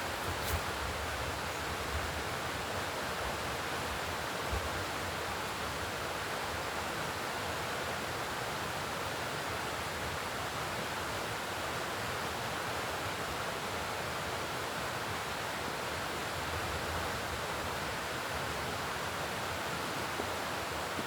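Steady, even rushing outdoor noise with no voice, with a couple of faint short knocks near the start.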